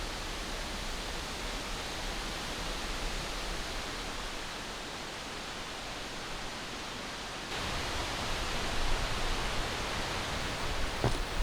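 Strong wind blowing as a steady rushing noise, a little louder and brighter from about seven and a half seconds in.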